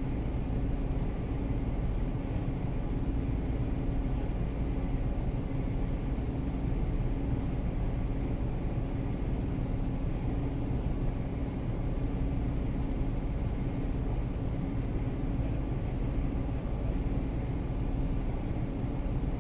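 Vehicle engine idling: a steady low rumble with a constant hum, unchanging throughout.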